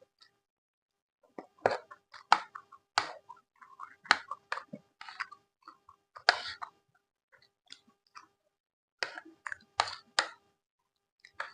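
Close-miked chewing of food: crisp crunches and wet mouth clicks that come in clusters with short quiet pauses between.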